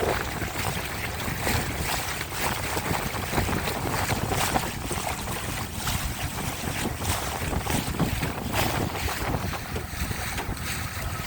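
Wind buffeting the microphone on open water, a steady rumbling rush with irregular gusts, with water lapping around a small boat.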